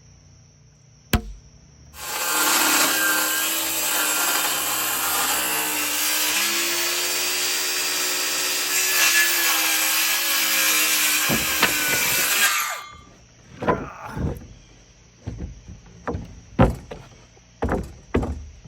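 Cordless circular saw cutting through a wooden board to trim it to a marked line, a steady cut of about ten seconds with the motor tone wavering slightly under load before it cuts off. Several separate knocks follow as the wood is handled, with crickets chirping steadily in the background.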